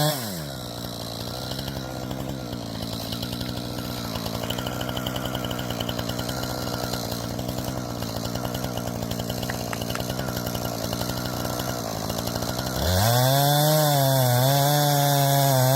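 Chainsaw engine dropping from high revs right at the start, running at lower revs for about twelve seconds, then revved back up to full throttle about 13 seconds in, its pitch wavering.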